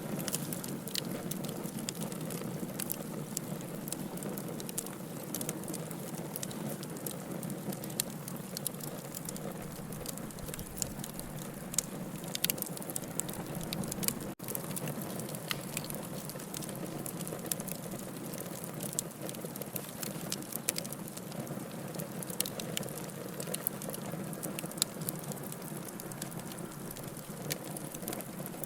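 Wood fire burning in a fireplace: a steady low rush of flames with frequent sharp crackles and pops, broken by a momentary drop-out about halfway through.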